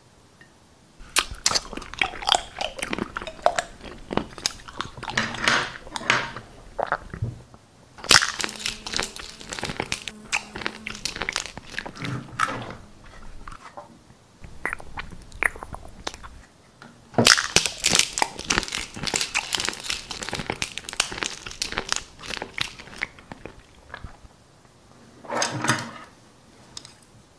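Staged eating sounds: close-miked crunching and chewing in several bursts of a few seconds each, with short pauses between them and a last short burst near the end.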